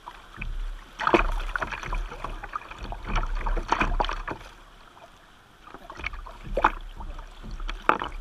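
Kayak paddle strokes splashing and dipping in river water, coming in irregular bursts with a brief lull about halfway through.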